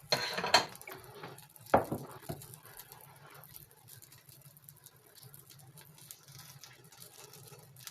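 A kitchen utensil scraping along a frying pan, then a sharp click about two seconds in and two lighter taps against the pan, as an omelet is worked in the pan. After that only faint scattered crackling is heard.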